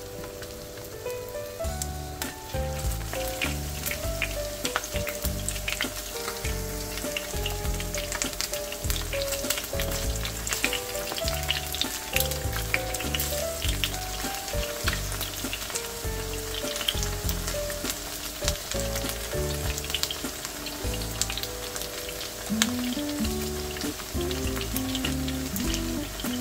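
Starch-coated chicken wings shallow-frying in hot oil in a pan: a steady sizzle full of small crackles and pops. Background music with a stepping melody and a pulsing bass plays underneath.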